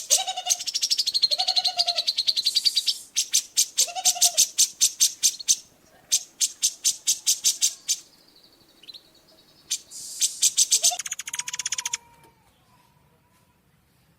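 Songbird song from a masteran training recording: rapid trains of sharp, evenly repeated high notes broken by short lower whistles, stopping about twelve seconds in.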